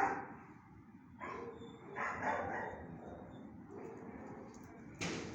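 A dog barking: a couple of fainter barks about one and two seconds in, and a sharp click near the end.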